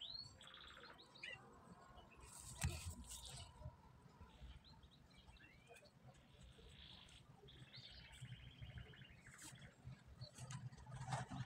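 Faint bird chirps and short rapid trills at intervals, with a single soft click about two and a half seconds in.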